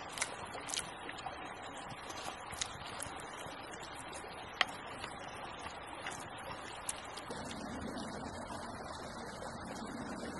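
Campfire crackling with irregular sharp pops over the steady rush of a small creek. About seven seconds in the sound changes and a deeper rumble joins the rush.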